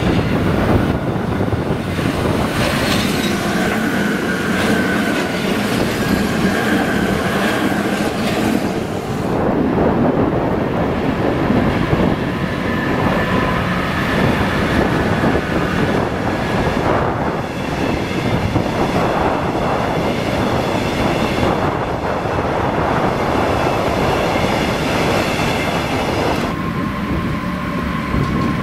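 Electric trains running past on the tracks: a continuous rolling clatter of wheels on rail, with high steady whining or squealing tones that come in about four seconds in and again through the second half.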